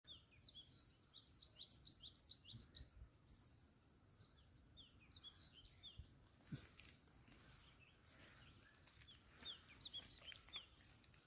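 A small bird giving quick runs of short, high chirps, each falling slightly, in three bouts over faint open-air quiet.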